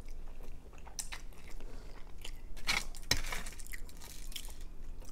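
Close-miked chewing of spicy instant ramen noodles, with wet mouth noises throughout. A louder, sharper burst of noise with a low knock comes about three seconds in.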